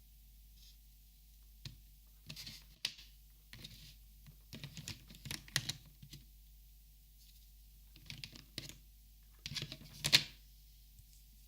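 Plastic Copic markers being handled, in short bursts of light clicks and taps separated by pauses, the loudest near the end.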